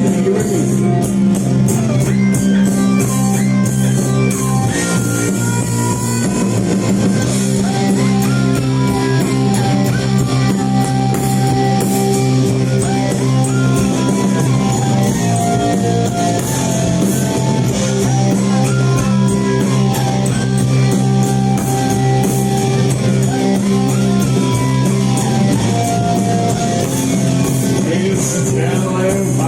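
Live rock band playing an instrumental passage: guitars holding long low notes under a stepping melody line, with drums and cymbals driving steadily.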